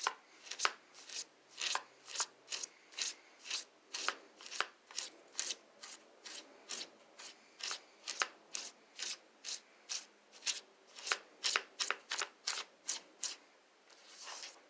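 A comb drawn over and over through a toy horse's mane, wet with marker ink, in quick strokes about three a second, with a short pause near the end.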